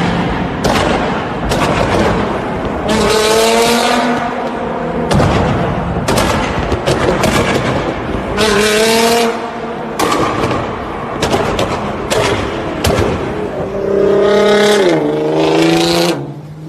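Modified car engines revving hard in several rising and falling sweeps, with many sharp exhaust pops and bangs in between.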